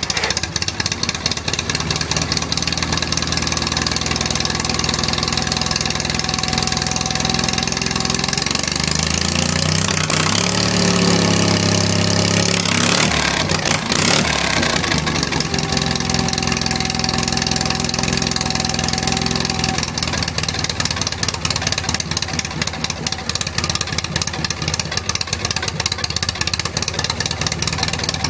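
Sears Suburban 18/6 garden tractor engine running through a straight pipe with no muffler, loud and steady. It is revved up about a third of the way in, held for a few seconds, then drops back to a steady run.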